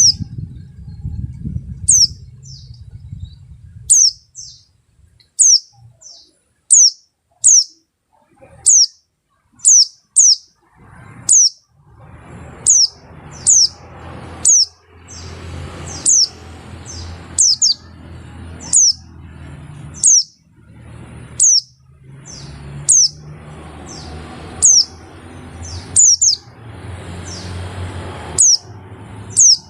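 Pleci (white-eye) calling over and over: short, very high notes that slide sharply downward, about one a second. A low rumble and hiss sits under the calls for much of the time.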